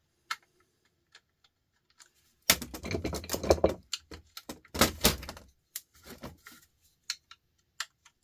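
Scattered clicks with a burst of clattering and rattling from about two and a half to five and a half seconds in: hand tools and plastic and metal sander parts being handled and knocked together during a teardown.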